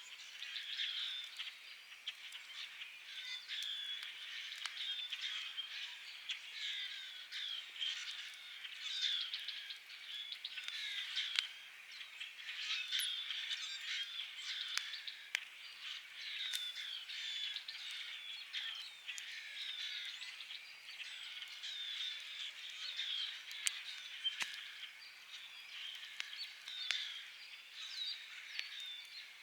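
A dense, steady chorus of high chirping calls from spring-evening wildlife, with a campfire crackling underneath in a few sharp pops.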